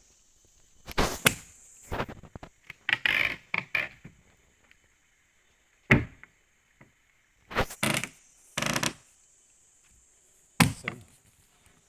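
Irregular heavy knocks and thuds, about eight blows or short clusters of blows at uneven intervals, under a faint steady high-pitched insect drone.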